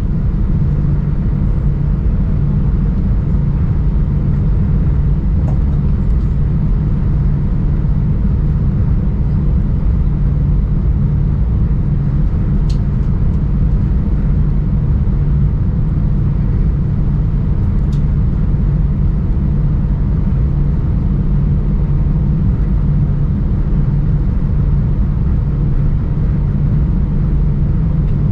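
Steady low mechanical rumble with a constant low hum, typical of a vehicle or an aircraft cabin. Two faint clicks are heard about halfway through.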